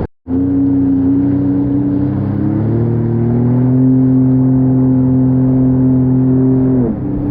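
Jet ski engine running steadily at speed on open water. After a momentary dropout at the very start, its pitch steps up a little about two and a half seconds in, then drops briefly near the end as the throttle eases.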